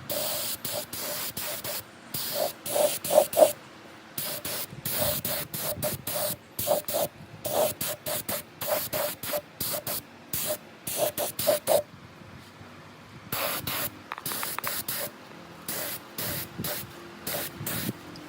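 Compressed air hissing out of a nozzle in quick, short repeated bursts, several a second, with a faint whistle in each burst and a short pause about twelve seconds in.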